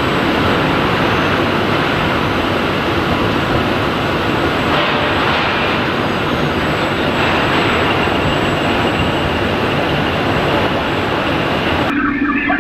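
Pulverized-coal firing system of a billet reheating furnace running: a loud, steady, even rushing noise from the burners and blowers. Near the end the noise drops away and a steady low hum takes over.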